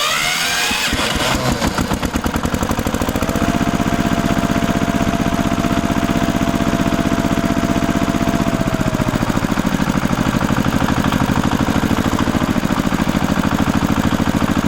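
A small engine speeds up and then runs with a fast, even chugging. A steady whine runs through the middle, and the engine note drops slightly about two-thirds of the way in.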